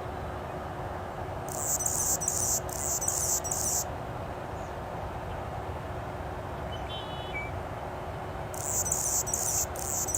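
A small songbird giving very high-pitched, rapid, buzzy trilling phrases in two spells: the first about a second and a half in, the second near the end, each made of four short bursts. A steady background hiss runs underneath.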